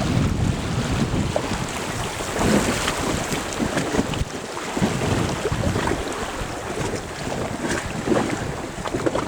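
Rushing river water splashing around a raft, with wind buffeting the microphone.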